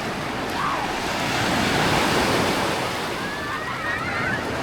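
Small waves breaking and washing up the sand at the water's edge, a steady surf wash that swells a little about halfway through.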